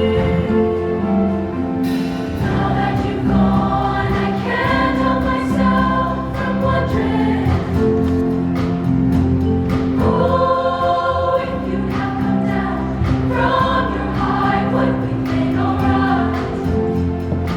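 Show choir singing in harmony over a live backing band, with a steady beat.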